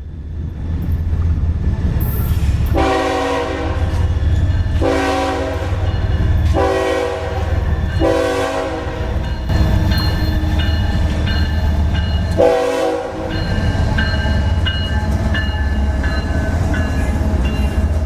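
Diesel freight locomotive passing with a steady engine rumble and sounding its multi-chime air horn in a long, long, short, long pattern, the grade-crossing signal, then one more blast. Thin, shifting high squeals come from the wheels in the second half, typical of flange squeal in a curve.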